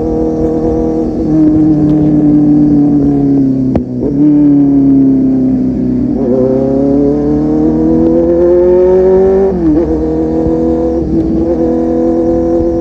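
Kawasaki Z800's inline-four engine through a full-system aftermarket exhaust, under way. The engine note falls over the first few seconds, with a sharp click near four seconds. It then rises steadily under acceleration for about three and a half seconds, drops abruptly near ten seconds as the throttle is closed or a gear is changed, and holds steady after that.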